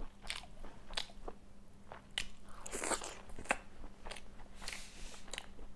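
Close-up eating sounds of a person chewing a fish curry with bones, irregular wet mouth clicks and smacks.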